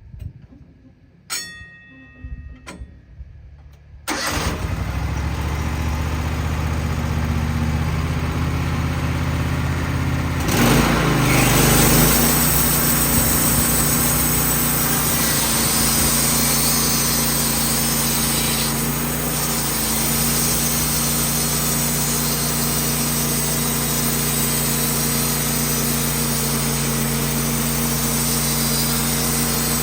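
Wood-Mizer band sawmill's engine started after a few clicks about four seconds in, then running steadily. It grows louder about ten seconds in and then holds an even, steady running sound.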